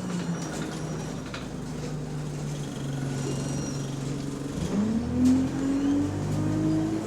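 Bus engine running at low revs with a steady low drone, then accelerating from about halfway in, its note rising steadily. The bus has an exhaust leak.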